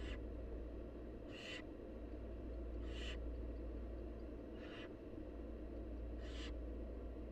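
Barn owl nestlings giving their short, hissing begging calls, repeated about every second and a half, five in all, over a steady low hum.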